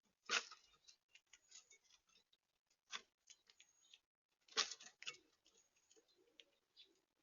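Irregular clicks and taps of animals feeding at a bird feeder, pecking and scrabbling on it. There are two louder knocks, one just after the start and one about four and a half seconds in.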